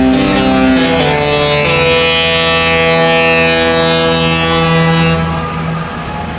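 Disney cruise ship's musical horn sounding a tune: several notes at once that change pitch about a second in and again shortly after, then one chord held until it stops about five seconds in.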